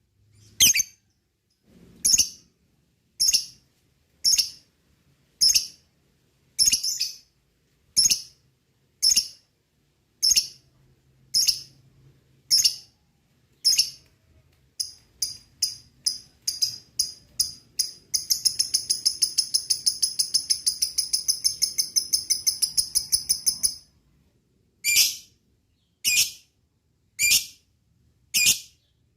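Lovebird calling: single sharp chirps about once a second, quickening past the middle into a rapid chattering trill, the long 'ngekek', that lasts about six seconds, then single chirps again.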